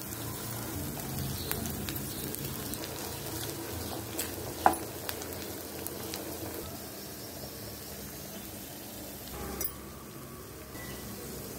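Diced raw green banana frying in oil with onions and tempering in a nonstick pan, with a steady sizzle. It is stirred with a wooden spatula, and there is one sharp knock about halfway through.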